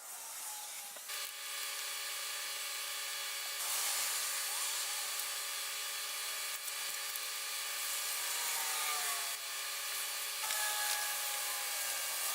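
Power drill running as it drills pilot holes into wood. The motor's pitch sags and recovers a few times as the bit loads up.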